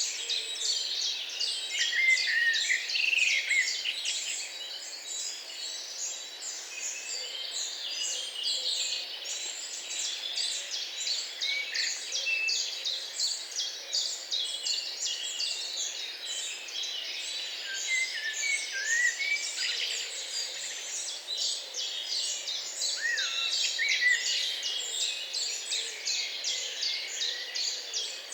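Many songbirds singing at once: a dense, unbroken chorus of quick high chirps and trills, with now and then a lower, swooping whistled note.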